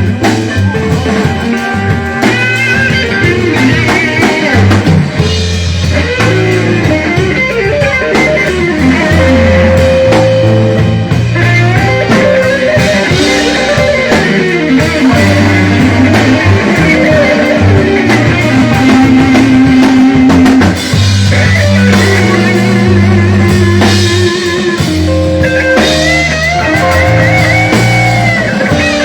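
Live blues band playing an instrumental passage: an electric guitar takes the lead with bent, wavering notes over a steady bass line and a drum kit.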